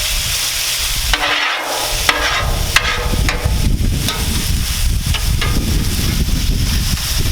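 Cod fillets frying and sizzling on a Blackstone flat-top griddle, with scattered sharp clicks and scrapes of a utensil working the griddle surface.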